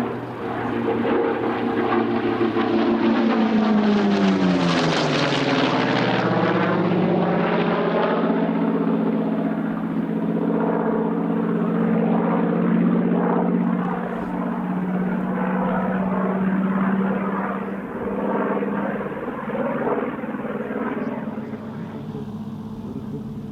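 Chance-Vought F4U Corsair's radial engine and propeller in a flypast: the drone grows to its loudest about four to five seconds in, falls sharply in pitch as the aircraft passes, then holds a lower steady note as it moves away, dropping in level near the end.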